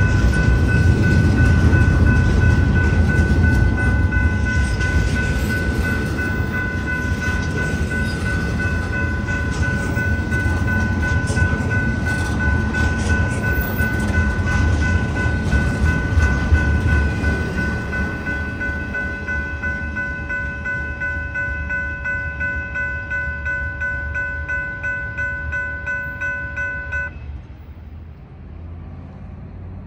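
Double-stack intermodal train rolling through a grade crossing: the low rumble and clatter of its well cars' wheels on the rails, easing somewhat after the middle, over a steady ringing from the crossing's warning bell. Both stop abruptly near the end, leaving quieter outdoor background.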